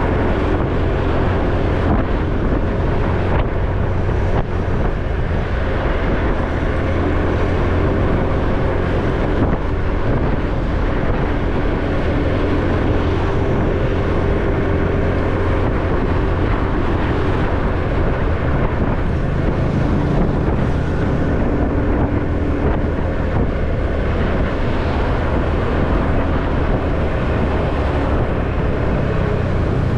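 Motorcycle engine running steadily while riding, with road noise and wind noise on the microphone.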